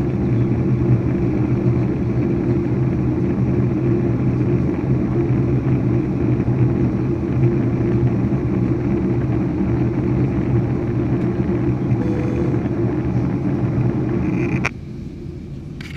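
Loud, steady jet engine rumble heard inside the cabin of a Ryanair Boeing 737-800 airliner around takeoff. The sound drops suddenly about a second before the end.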